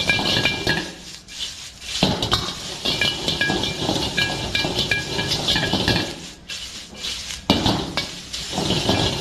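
A metal cooking utensil scraping and clinking against a pan while chicken and vegetables are stir-fried, in irregular bursts with short pauses, with brief metallic ringing on the strikes.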